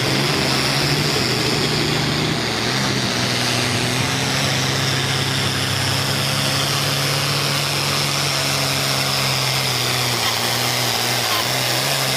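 Engine of a pulling tractor or truck running hard at steady high revs, loud and even, its pitch dipping slightly near the end.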